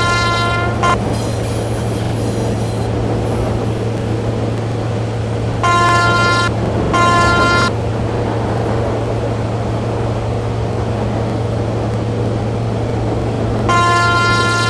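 Train horn sounding in blasts over the steady rumble of a running train: a blast that stops about a second in, two short blasts in the middle, and a longer blast starting near the end.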